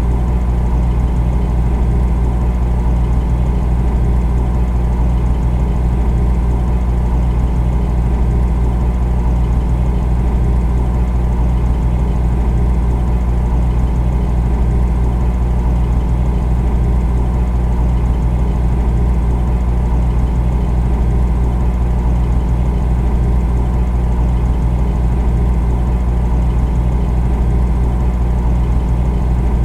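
Refrigerator running: a steady low hum, strongest in the deep bass, with no change in level.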